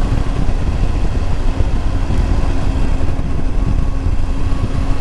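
Triumph Tiger 800 motorcycle's three-cylinder engine running at a steady speed under heavy, constant wind and road rush while riding.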